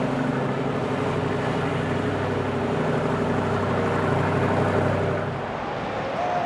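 Boat engine running steadily with a low hum that drops away about five seconds in.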